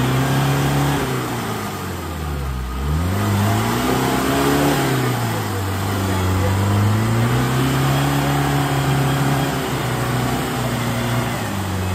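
Off-road SUV engine revving up and falling back again and again, a long surge held through the middle, as the vehicle struggles to drive out of slushy mud.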